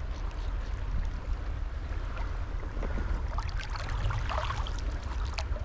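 River water running, with a steady low wind rumble on the microphone and scattered faint clicks about two to five seconds in.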